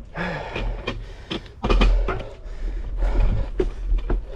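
Bicycle rattling and knocking over rough, bumpy trail, with a low wind rumble on the microphone.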